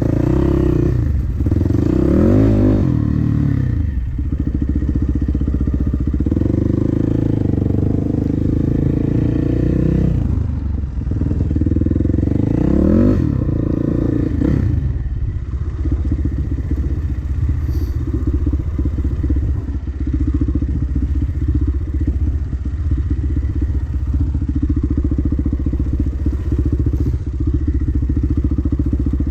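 Dirt bike engine running under throttle on a trail ride, revving up and down, with two clear rises in revs early on and again about halfway through, then holding steadier.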